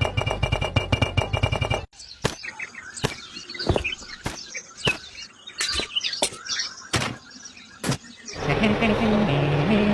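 Rhythmic music for about two seconds, then birds chirping among a series of sharp knocks, roughly one a second. Near the end a louder, denser sound with a wavering pitch comes in.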